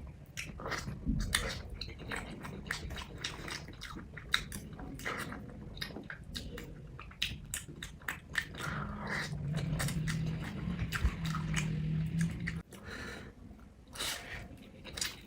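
Close-up chewing and biting of paper noodles, with many short wet mouth clicks and smacks. A low steady hum sits under the chewing for a few seconds in the second half.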